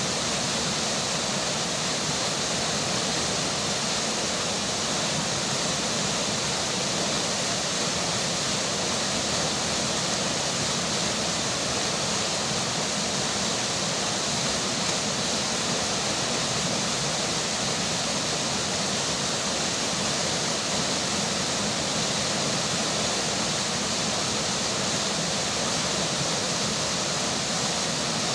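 Steady rushing of flowing river water mixed with rainfall, an even hiss at a constant level with no distinct drops or events.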